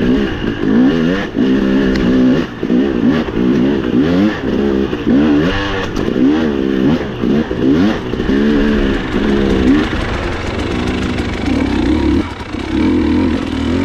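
Dirt bike engine revving up and down in quick blips as the throttle is worked again and again, then settling to steadier, lower running for the last few seconds.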